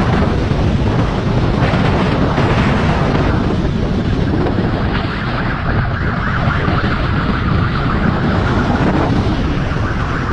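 Heavy wind noise on the microphone of a fast-moving motorcycle, with a siren wailing through it.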